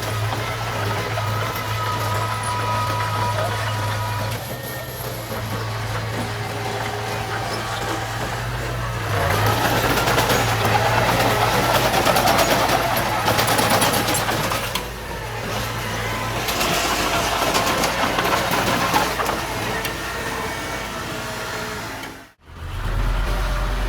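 Diesel engine of heavy earthmoving equipment running steadily, with two louder, noisier stretches of working clatter partway through. Near the end the sound cuts out briefly and returns with a deeper engine note.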